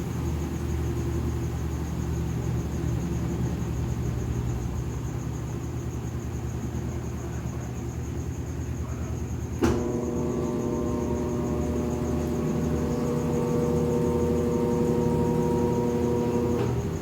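Consul Facilite 8 kg top-load washing machine in its spin cycle: a steady low hum from the spinning drum. About ten seconds in a click is heard and a steady motor tone sets in over the hum, cutting off with another click shortly before the end.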